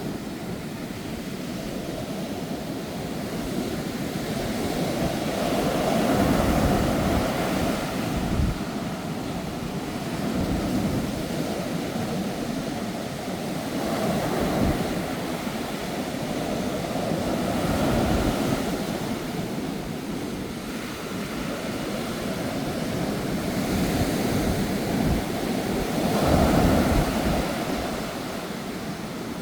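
Sea waves surging and breaking on the shore in strong, typhoon-force wind, the surf swelling and falling back about every four seconds. Wind buffets the microphone with low rumbles at the loudest surges.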